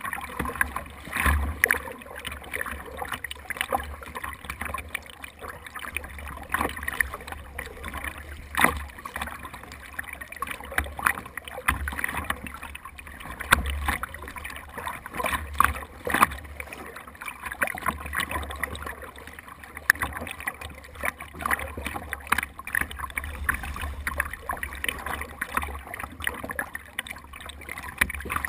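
Water splashing and lapping against a kayak while it is paddled, with frequent irregular splashes and knocks over a steady low rumble.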